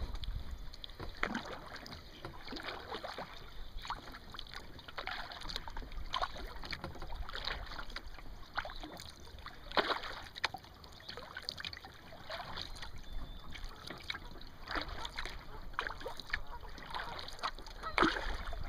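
Kayak paddling: the paddle blades dip into the water and drip, making short, irregular splashes and trickles, about one or two a second.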